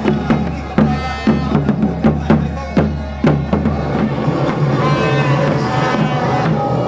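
Drums being struck in loud, irregular beats. About four seconds in they give way to a steady, horn-like blare.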